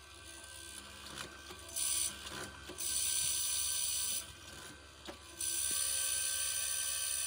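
Workshop tool noise: a power tool runs in on-and-off stretches of high hiss, and light knocks and clicks sound in the quieter gaps between them.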